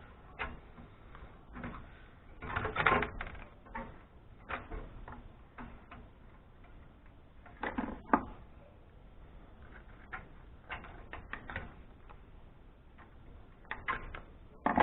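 Irregular clicks, taps and clatters of small metal parts and screws as a scrap amplifier is taken apart, with a louder clatter about 3 s in and another about 8 s in.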